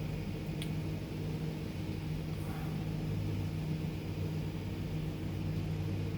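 Steady low drone of a truck's engine running, an even hum with no change in pitch.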